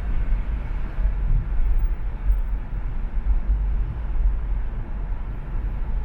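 Car driving along an expressway: a steady, uneven low rumble of road and wind noise.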